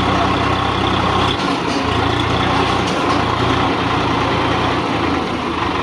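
Tractor diesel engine running steadily with a low drone that dips briefly twice, about a second and a half in and again near the end.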